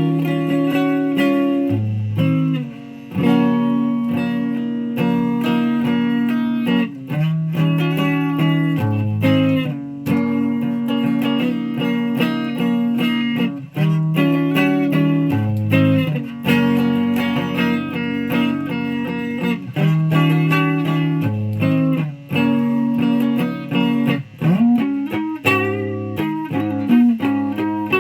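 Electric guitar playing a repeated riff of held notes and chords, with one note bent or slid upward near the end.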